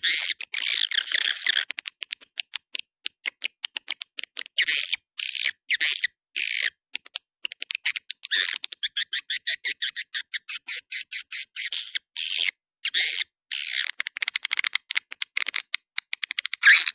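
Swiftlet lure call: bursts of high twittering swiftlet chirps alternate with rapid trains of dry clicks, broken by short dead-silent gaps. It is the kind of call played to draw swiftlets into a nesting house.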